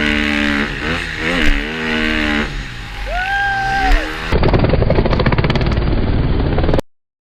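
Dirt bike engine revving up and down. About four seconds in it cuts to a rougher recording of an engine running hard, which stops abruptly near the end.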